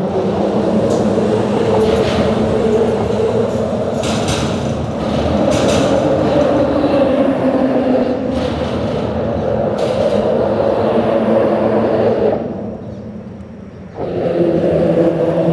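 A steady, loud mechanical rumble with a low hum running through it, which fades for a second or two about twelve seconds in and then comes back.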